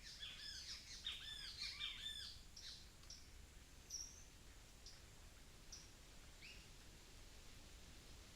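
Small birds calling in a quick tumble of chirps, thickest over the first two seconds or so, then thinning to a few scattered high single chirps.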